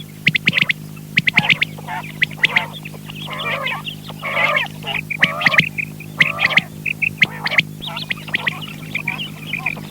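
Quail calling: many short, quick calls overlapping, with a few longer, lower calls a few seconds in, over a steady electrical hum.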